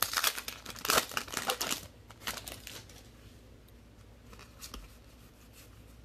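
Crinkling and rustling of a foil trading-card pack wrapper and cards being handled, in dense bursts over the first two seconds, then only a few light clicks.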